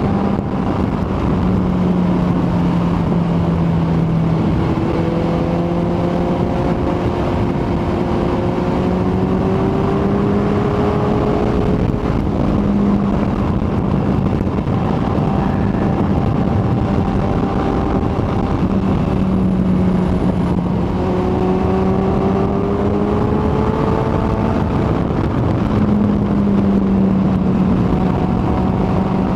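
Kawasaki ZX-14R's inline-four engine running at a steady cruise, its note drifting gently up and down in pitch, under a heavy rush of wind and road noise.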